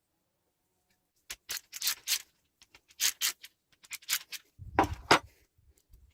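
A series of short, sharp clicks and scrapes in small clusters, with a heavier knock about five seconds in: parts and tools being handled during work on an old gearbox.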